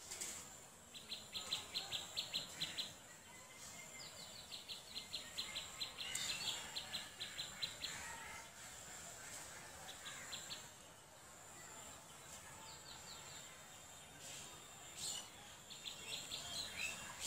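A small bird calling outdoors in several rapid runs of short chirps, about six a second, each run lasting one to four seconds. A faint steady high-pitched tone sits underneath.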